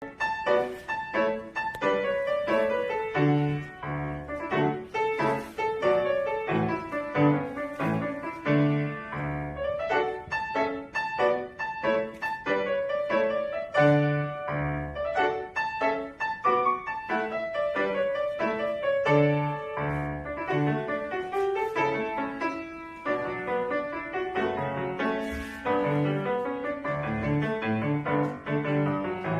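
Solo piano playing a lively piece of quick, separate notes over a repeating pattern of paired bass notes.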